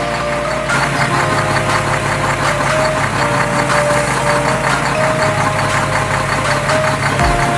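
A steady engine running sound, like a vehicle idling. Held notes that change pitch every second or so sound with it.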